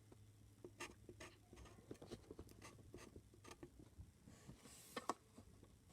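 A drawing tool scratching on paper in quick, short, irregular strokes, with a sharper tap about five seconds in.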